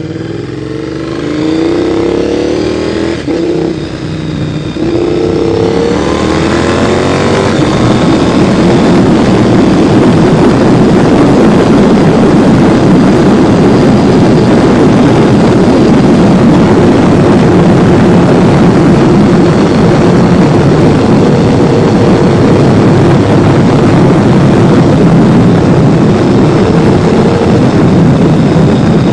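Honda VTR1000 SP1's 90-degree V-twin through titanium exhausts, revving up in rising sweeps twice in the first few seconds, then running loud and steady.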